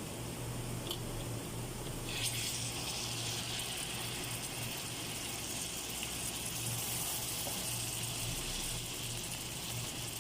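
Butter and garlic sizzling in a frying pan, the sizzle jumping suddenly louder about two seconds in as wet shrimp go into the hot butter, then frying steadily.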